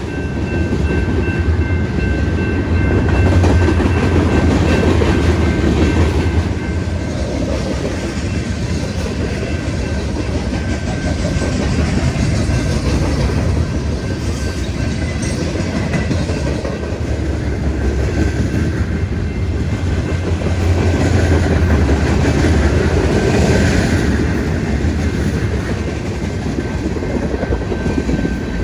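Freight train's covered hopper and tank cars rolling past close by: steel wheels rumbling and clicking on the rails in a continuous, steady run, with a faint thin high whine underneath.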